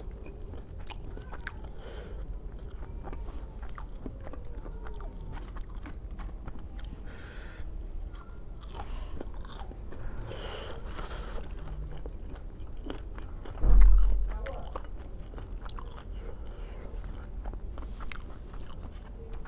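Close-up sounds of a person chewing and biting food, with many small mouth clicks throughout. A single low thump about fourteen seconds in is the loudest sound.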